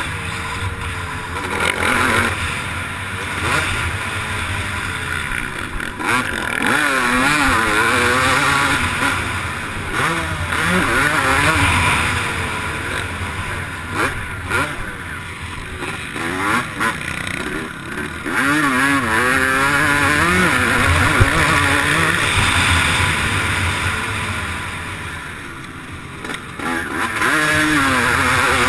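Motocross bike engine under race load, the revs climbing and falling again and again with throttle and gear changes.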